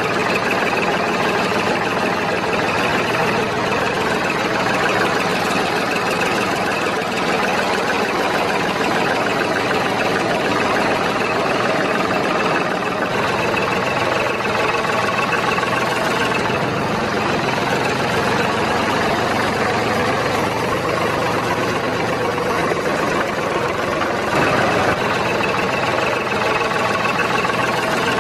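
A small motor running steadily, with no change in speed.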